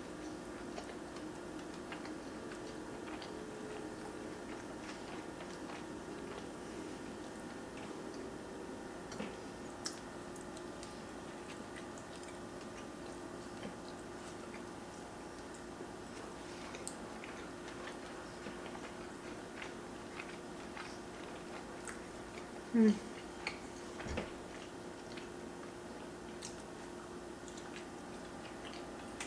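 Close-miked chewing of pieces of roasted chicken, with small wet mouth clicks, over a steady faint hum. About 23 seconds in there is a short rising "mm".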